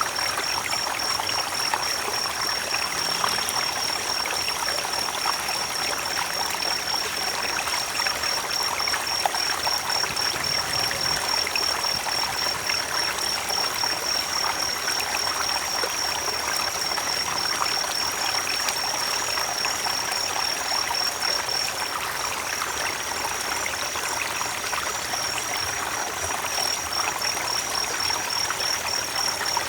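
Creek water running and trickling over stones in a steady, even rush, with a steady high-pitched trill running above it.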